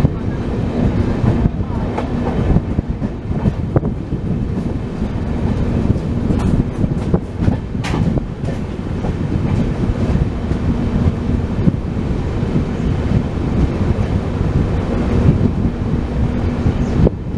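Express passenger train running along the track, heard from aboard a coach: a steady rumble of wheels on rail with scattered sharp clicks and knocks over the rail joints.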